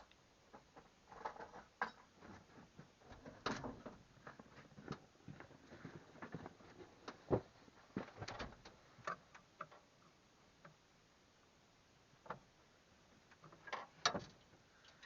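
Irregular clicks and metallic knocks of hand tools working at the engine's belt tensioner, with a 1/2-inch drive ratchet being fitted and used while the fan belt is put on.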